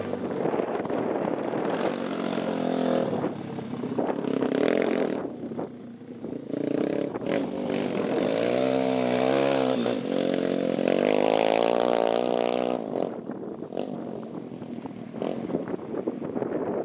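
Pit bike engine running and being revved, its pitch climbing and dropping several times, with a longer rev in the middle.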